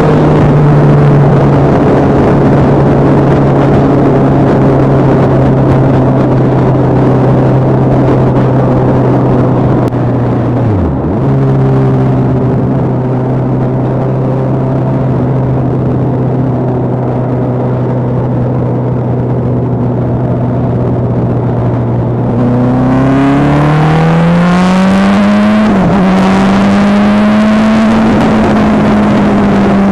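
Sport motorcycle engine running at a steady cruising speed, with a brief drop and recovery in engine pitch about eleven seconds in. Near the end the revs climb as the bike accelerates, dip for an upshift, then hold steady at a higher pitch.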